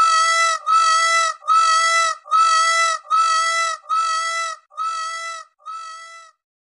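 Indian peafowl (peacock) calling: a run of eight loud calls, each held on one steady pitch for just over half a second, repeated about every 0.8 s, the last few fainter.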